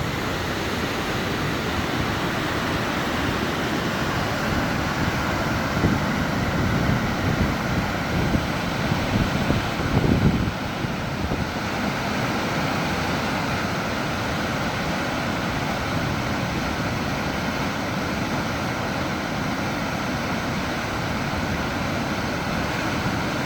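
Dam penstock outlet releasing water into the spillway, a steady rushing roar of falling, churning water. Gusts buffet the microphone between about 6 and 11 seconds in.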